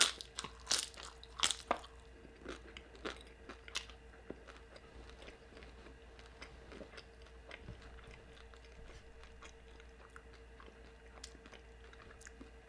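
Close-miked biting and chewing of crunchy food. Sharp crunches come in the first four seconds, then quieter chewing, over a faint steady hum.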